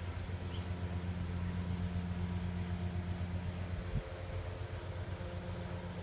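Steady low mechanical hum of a running engine or motor, with a brief thump about four seconds in.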